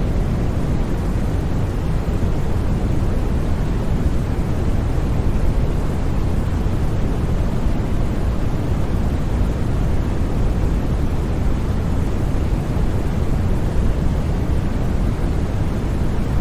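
Steady synthetic white noise: a constant, even rushing hiss, heavier in the low end, that never changes.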